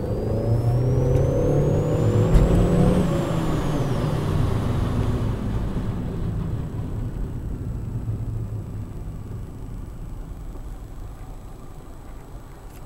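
A road vehicle running close by, loud at first and fading steadily away, with a thin whine that rises in pitch for about three seconds and then falls.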